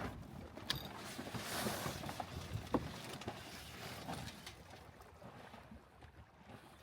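Wind and water rushing past a small sailboat under sail, swelling and easing, with a few light knocks.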